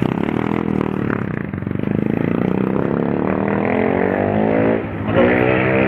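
Motorcycle engine running under way, its pitch climbing steadily through the middle as it accelerates.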